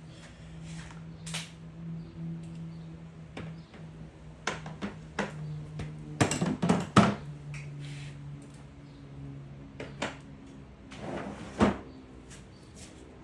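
Knocks and clatter of objects being handled, loudest about six to seven seconds in and again near the end, over a steady low hum.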